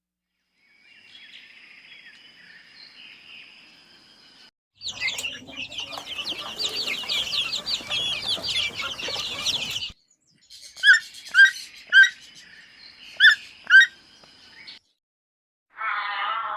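Birds calling in separate short clips: a faint call first, then a dense stretch of rapid high peeping lasting about five seconds, then five loud, short chirps, each falling in pitch. Near the end a different, lower call begins.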